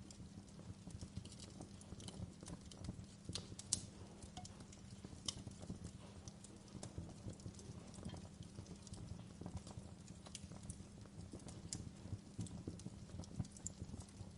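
Wood fire burning in a fireplace: irregular crackles and pops of burning logs over a steady low rumble of the flames.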